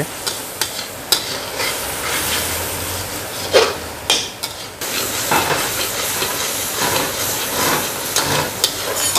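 Tomato, garlic and green-chilli masala sizzling in oil in a kadhai while a metal slotted spatula stirs it, scraping and clicking against the pan many times. The masala is being fried down (bhuna) until it thickens.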